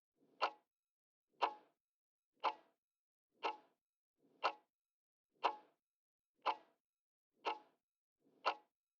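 Clock-style countdown timer ticking once a second, nine even, crisp ticks, counting down the time allowed to answer a quiz question.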